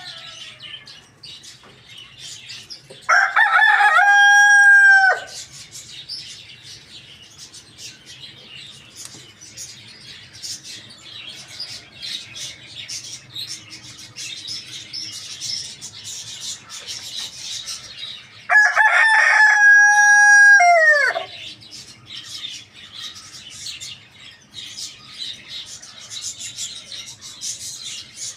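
A rooster crowing twice, each crow a loud cock-a-doodle-doo of about two seconds that falls in pitch at the end, roughly a quarter of a minute apart.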